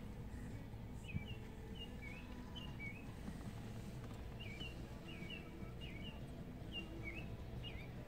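Songbirds whistling: short slurred high whistles, often in quick pairs, repeating from about a second in over a steady low rumble.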